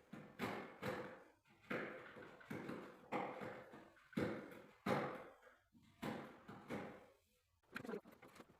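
A series of short scraping or brushing strokes, about one a second, each starting sharply and fading away.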